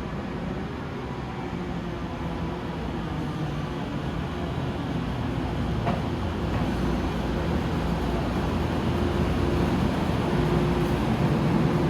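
Electric commuter train pulling into the station platform, a steady low rumble that grows gradually louder, with a single short click about six seconds in.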